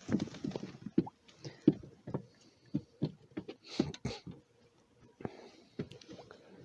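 Irregular clicks, taps and rustling from handling a freshly caught perch while the lure is worked free of its mouth.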